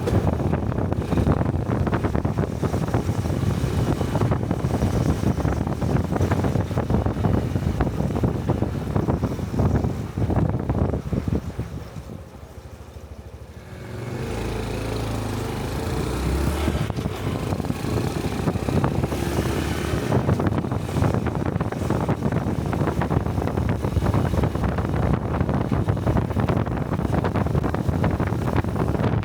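Small single-cylinder motorcycle riding along, with wind rushing over the helmet-mounted microphone. About halfway through the noise drops away for a couple of seconds, then a steady low engine note comes in and the road and wind noise builds back up as the bike gets going again.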